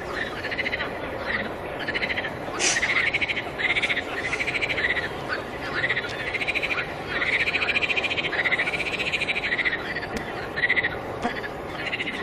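A chorus of frogs calling: overlapping pulsed, trilling calls repeat about once a second over a steady background noise.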